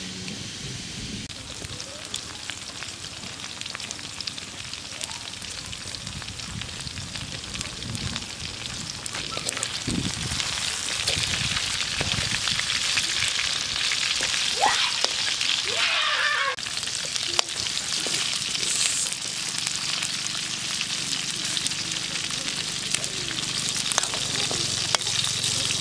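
Frogs frying in hot oil in a metal wok, sizzling steadily, with the clinks and scrapes of a metal spatula stirring against the pan. The sizzle grows louder about a third of the way in.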